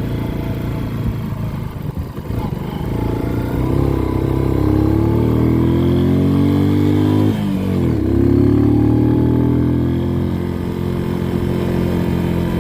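Motorcycle engine accelerating under way. The pitch climbs steadily, drops sharply at a gear change about seven seconds in, then climbs again.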